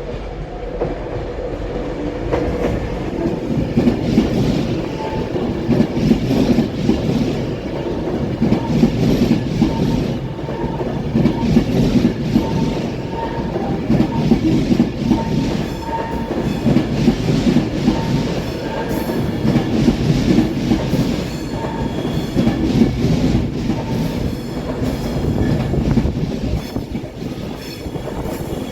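A train rolling past close by: a steady rumble of railcars with a rhythmic clatter of wheels over the rail joints, swelling every second or two.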